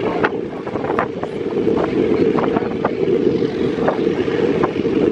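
White Pass & Yukon Route narrow-gauge passenger train running at speed, heard from its coach: a steady heavy rumble with wind buffeting the microphone and short sharp clicks scattered through it.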